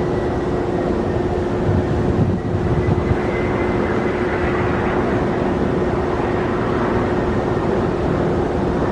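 Jet airliner engines running steadily, with a constant low hum and a fainter high whine over a wide rush of engine noise.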